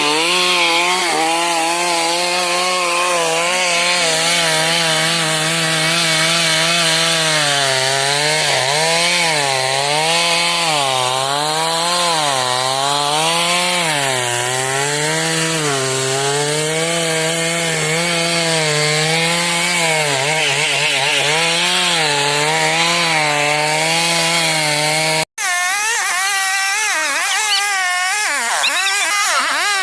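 Stihl MS 382 two-stroke chainsaw cutting through wood under load, its engine pitch wavering up and down as it bogs in the cut and picks up again. The sound drops out for an instant about 25 seconds in, then the saw carries on cutting.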